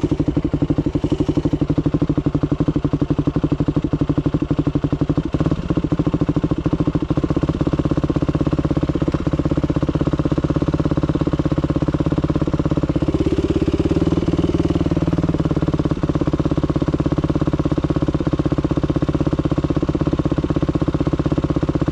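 Dirt bike engine running steadily at low revs, with a brief rise in revs about thirteen seconds in.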